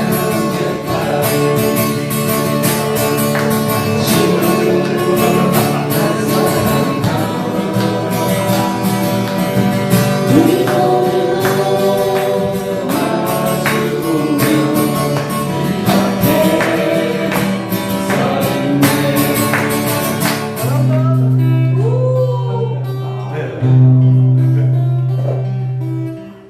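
Acoustic guitar strumming with singing, a song being performed. Near the end it settles into long held low notes.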